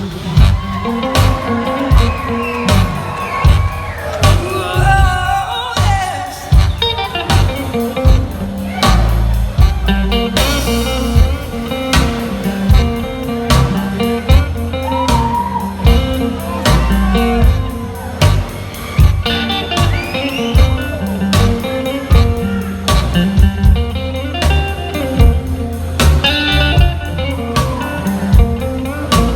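Live blues-rock band playing an instrumental passage: a guitar lead over a steady drum beat and bass.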